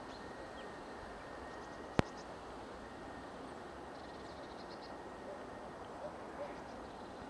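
Faint, high, short call notes of small songbirds, a few quick runs of chips, over a steady outdoor background hiss, with one sharp click about two seconds in.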